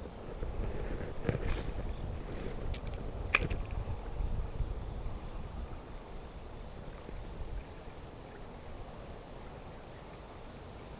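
A few sharp clicks and knocks amid low rumbling noise in the first few seconds, over a steady high hiss.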